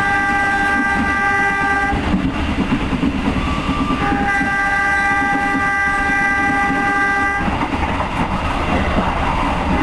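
Diesel locomotive's horn sounding two long chord-like blasts, the first ending about two seconds in and the second from about four to seven and a half seconds in, over the steady running rumble of a moving train.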